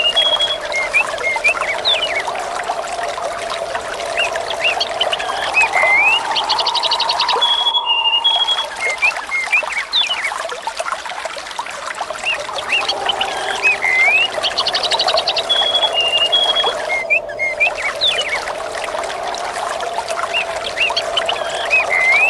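Looped nature ambience: birds chirping and trilling over a steady rush of flowing water. The same few seconds of birdsong come round again about every nine seconds.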